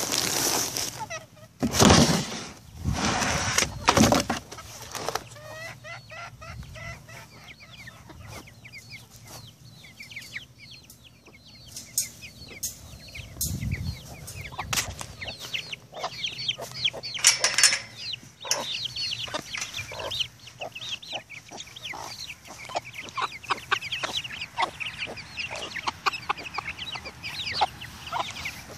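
Free-ranging chickens clucking and chirping with many short calls throughout. A few loud bursts of noise come in the first few seconds.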